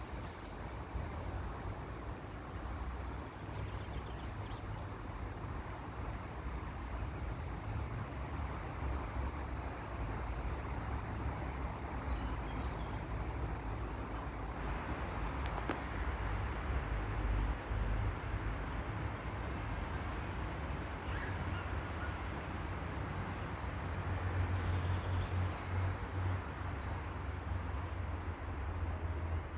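Outdoor park ambience: a steady low rumble with many small birds chirping faintly, in short high chirps scattered throughout.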